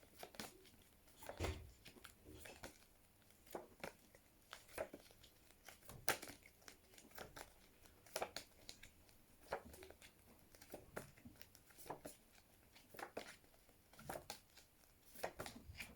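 Faint paper rustles and light taps of word cards being changed, roughly one every second.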